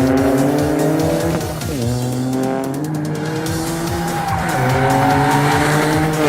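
Toyota hydrogen-combustion engine pulling hard on track, its pitch climbing, dropping sharply about a second and a half in and again about four and a half seconds in, then climbing again.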